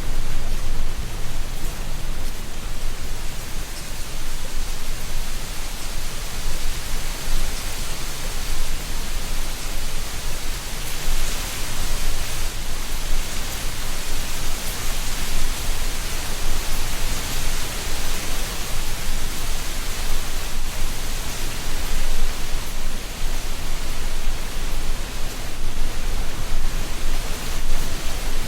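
Wind blowing through a tree canopy, rustling the leaves in a steady hiss with a low rumble beneath, swelling into a stronger gust about eleven seconds in before easing again.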